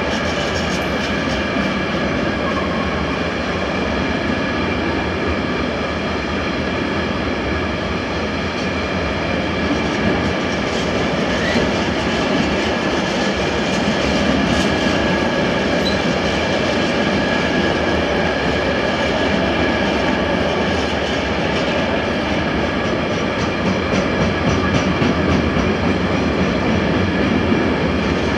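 A long container freight train's loaded intermodal flat wagons rolling past, with a steady rumble of wheels on rail. A few steady high tones sound above the rumble throughout.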